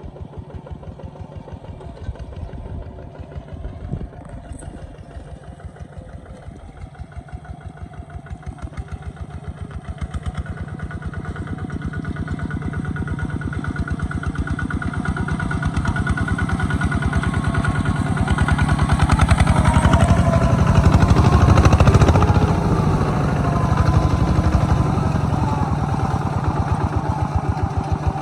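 Kubota ZT140 walking tractor's single-cylinder diesel engine running with a steady, fast chugging beat. It grows steadily louder through the middle and is loudest about three-quarters of the way through, then eases a little.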